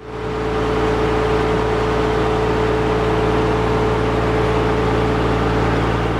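Boat engine running steadily at an even speed, a constant low hum with a steady tone over a wash of noise.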